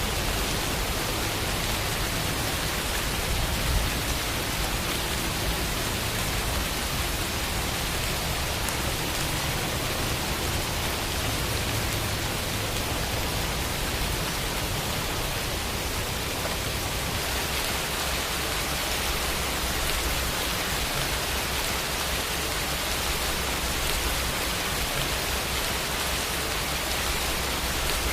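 Steady rain falling: an even, unbroken hiss of many raindrops.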